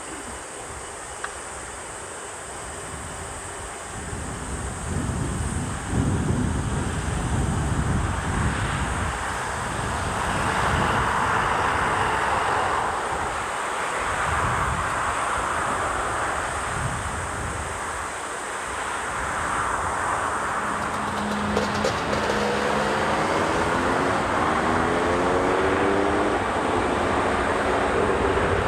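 Strong wind gusting on the microphone, then jet airliner engine noise building into a broad roar, with several engine tones rising together in pitch over the last several seconds.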